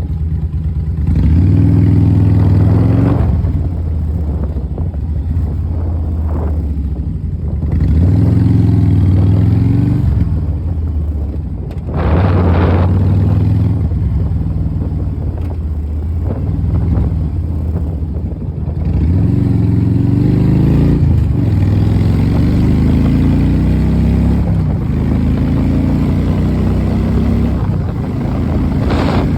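Kawasaki Vulcan motorcycle engine revving up and dropping back about six times, its pitch rising with each rev, with a brief rushing noise about twelve seconds in. The owner calls it bad-sounding.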